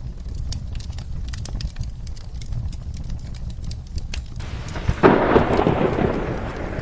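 Wood fire crackling with sharp pops over a steady low rumble. About four and a half seconds in, rain hiss comes up and a loud roll of thunder breaks at about five seconds, with rain falling after.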